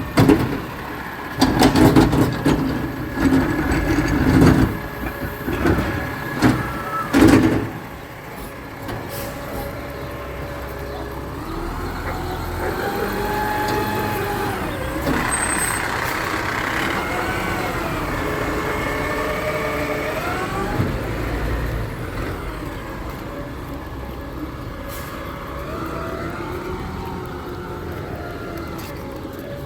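Garbage truck at work: loud irregular bangs and clattering for the first several seconds, then its engine running steadily with a pitch that rises and falls for a while before settling.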